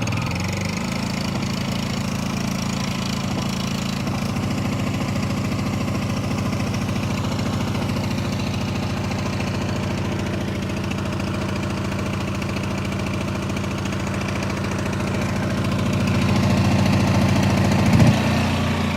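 The Honda-clone single-cylinder engine of an All Power 3500 W portable generator runs steadily just after a 13 °F cold start on ether. Near the end it grows louder and gives a brief jolt, as it is a little too cold to run without the choke.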